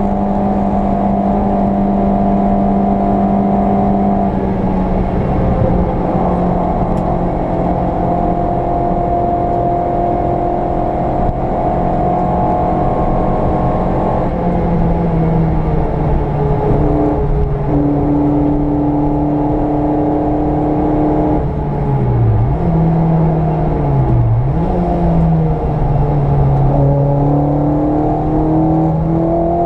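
VW Polo 86C's engine running hard on track, holding a steady pitch with drops at about 4 and 14 seconds in. Two quick dips in pitch around two-thirds of the way through, like gear changes, then the revs climb again near the end.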